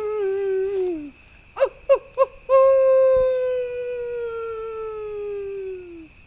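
Wolf-style howling: a howl trails off and falls in pitch, then come three short yelps and a second long howl that slides slowly downward.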